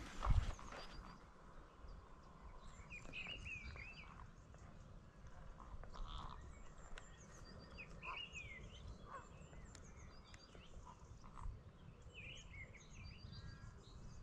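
Birds calling on and off, short chirps and curving calls overlapping, over a low rumble. A single loud thump comes just after the start.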